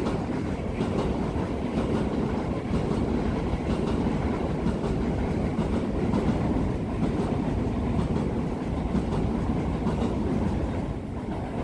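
NS Sprinter electric multiple unit crossing a steel railway bridge: a steady rumble of wheels on rails with light clatter, dropping off near the end as the train passes.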